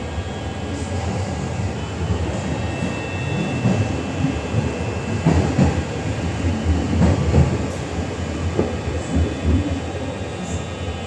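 MTR M-train electric multiple unit running along the track: a steady low rumble with wheel clicks and knocks over rail joints, the knocks loudest about halfway through.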